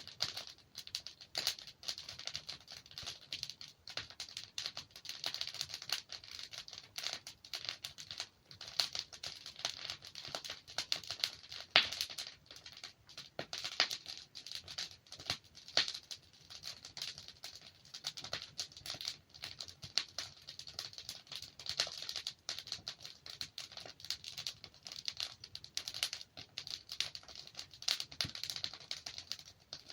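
Wood fire burning in a fireplace, with dense irregular crackling and occasional sharper pops from the logs, a few louder ones about halfway through.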